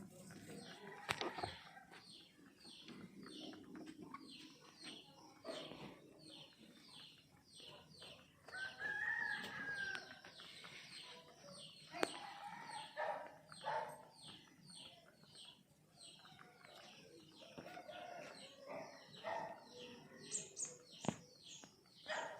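Aseel chickens calling: short, high chirps repeat several times a second, with one longer rooster crow about nine seconds in and a few sharp knocks.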